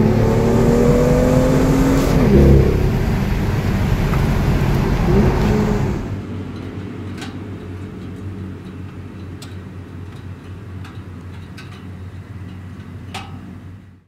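BMW M2 F87's turbocharged 3.0-litre straight-six accelerating hard, revs climbing; the pitch drops sharply about two seconds in, then climbs again. About six seconds in the engine sound falls away abruptly to a faint rumble with a few sharp pops.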